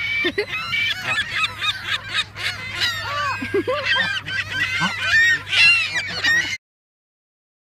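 A flock of geese honking, many short calls overlapping from several birds at once. The calls stop abruptly about six and a half seconds in.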